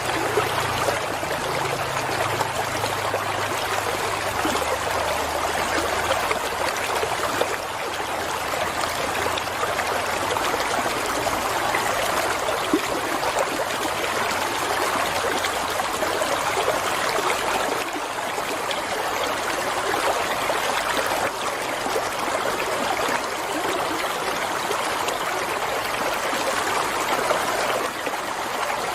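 Flowing water running and trickling steadily, an even rushing sound with no letup.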